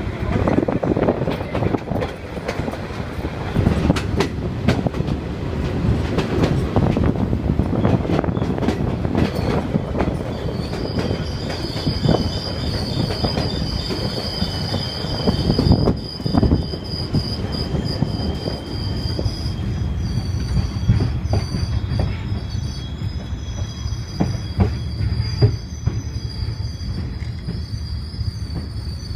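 El Chepe passenger train running on the rails, with a heavy rumble and the clatter and knock of its wheels. About ten seconds in, a steady high-pitched wheel squeal sets in and holds on.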